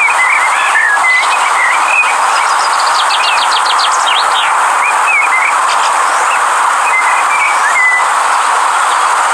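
River water rushing steadily, with small birds chirping over it, and a quick trill of rapid notes about three seconds in.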